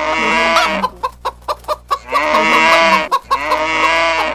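Chicken sound effect in a novelty ringtone: longer pitched squawking calls at the start, just after two seconds and near the end, with a run of quick short clucks about a second in.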